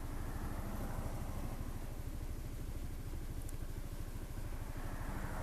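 Honda SH 300i scooter's single-cylinder engine idling steadily.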